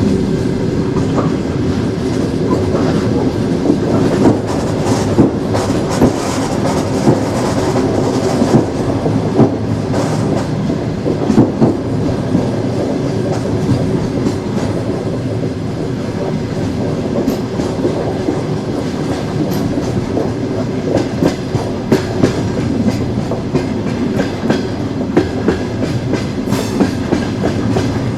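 Train wheels running on the rails: a steady rumble with irregular clickety-clack knocks as the wheels pass over rail joints, the knocks coming more often near the end.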